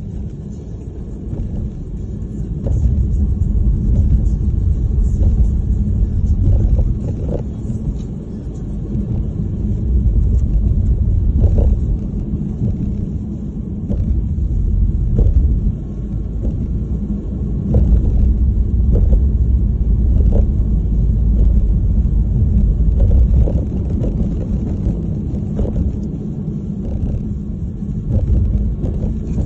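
Snowstorm wind buffeting the microphone: a loud low rumble that swells and eases in gusts every few seconds.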